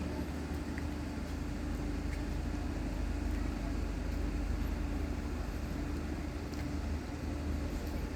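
Steady low rumble of a train, with a constant hum over it that doesn't change.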